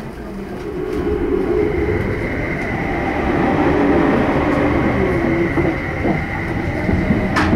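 An electric commuter train passing close on the adjacent track: its rumble grows louder over the first three seconds as it draws alongside, with a steady high whine over it, and a sharp click near the end.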